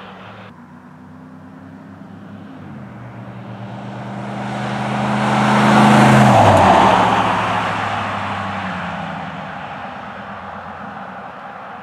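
A truck exhaust with a single-in, dual-out Jones Max Flow muffler, driving past: the engine note builds, peaks about six seconds in with its pitch dropping as the truck goes by, then fades away.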